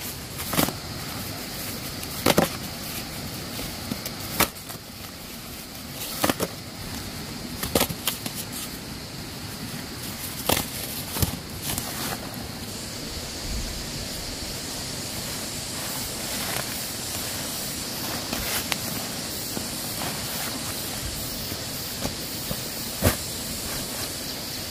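Irregular sharp knocks or snaps, one every second or two, over a steady background hiss with a high-pitched hum.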